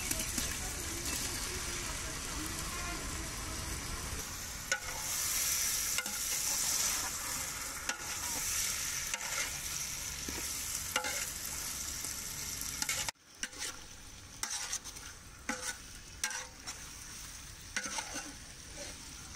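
Fish pieces sizzling in hot onion-tomato masala in a large metal pot as a steel ladle stirs them in, scraping and clinking against the pot. The hiss drops away suddenly about two-thirds through, leaving quieter scrapes and taps of the ladle.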